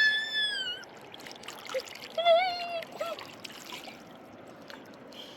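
Steady running river water, with a high drawn-out wailing cry that holds and then falls in the first second, and a shorter wavering call a couple of seconds in.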